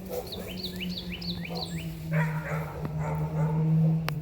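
A dog barking repeatedly, over a bird's quick run of repeated chirps and a steady low drone.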